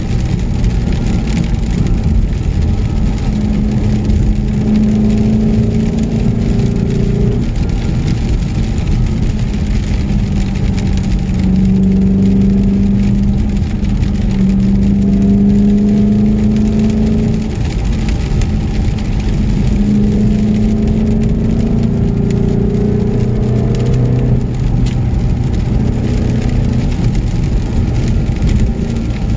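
Car engine pulling hard up a winding road, its pitch holding and then shifting several times as the revs change through the gears and corners, over constant road and wind noise.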